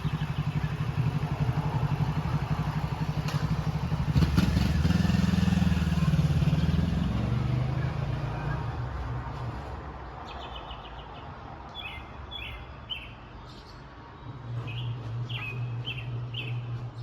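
A motor vehicle's engine running, growing louder with its pitch shifting about four to seven seconds in, then fading away. In the second half, small birds chirp in short repeated calls.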